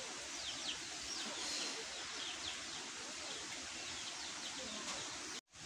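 Small birds chirping: many short, falling chirps, several a second, over a steady background hiss. The sound drops out completely for a moment near the end.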